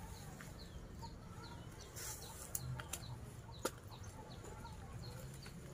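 Faint bird chirping: many short, high chirps in quick succession, with a few sharp clicks, the loudest about three and a half seconds in.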